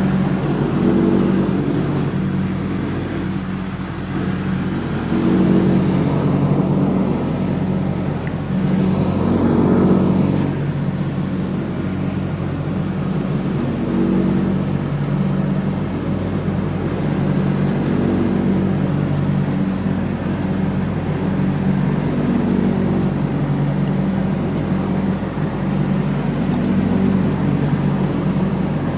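John Deere 304X riding lawnmower running steadily while mowing, its engine note swelling briefly a couple of times.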